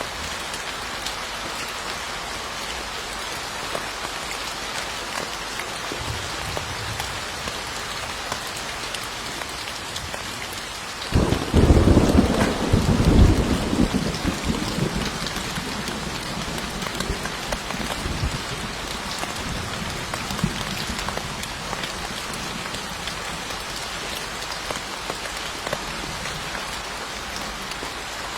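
Steady rain falling, with a sudden clap of thunder about eleven seconds in that rolls on as a low rumble for several seconds before fading back under the rain.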